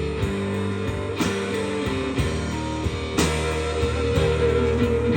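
Instrumental passage of a band song between sung lines: guitar-led chords over bass, with a new chord struck about a second in and again about three seconds in.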